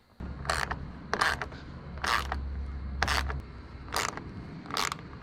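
Hand rivet nut tool being worked on a metal truck roof: sharp metallic clicks and scrapes about once a second, some doubled, over a low steady hum.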